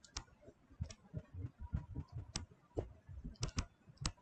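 Faint, irregular light clicks and taps, about ten of them spread unevenly through the pause.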